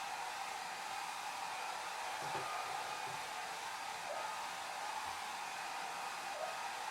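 Hair dryer running steadily: a constant rush of air with a faint motor whine in it.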